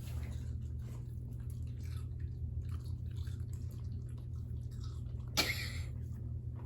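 Dogs chewing and crunching pieces of watermelon: small, irregular, wet clicks and crunches over a low steady hum. About five and a half seconds in there is one short, louder noise.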